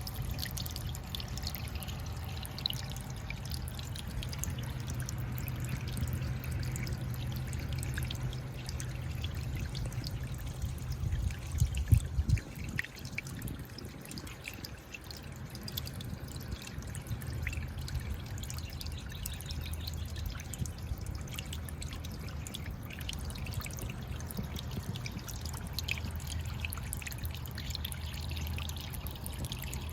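Sea waves washing and lapping on the shore, with many small splashes and trickles over a steady low rumble. A brief louder low bump comes about twelve seconds in.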